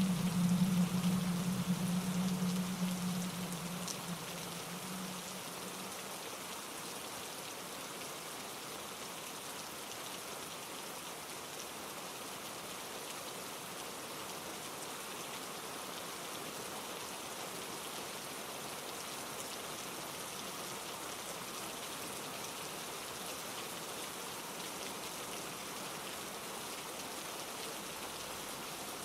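Steady rain falling, an even hiss of drops on leaves and surfaces, with a low rumble that fades away over the first few seconds.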